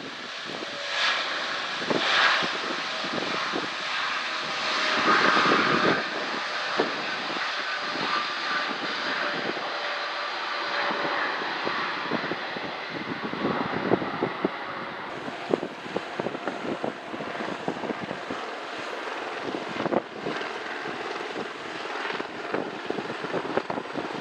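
Jet airliner engines running, a steady wide noise with a whining tone that is loudest in the first few seconds. About fifteen seconds in, the sound changes abruptly to another jet's engines.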